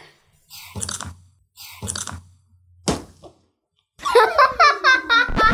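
Teeth gnawing and straining at a firm, rubbery jelly that is too hard to bite through: three short bursts, the last a sharp click near three seconds. About four seconds in, laughter over music comes in.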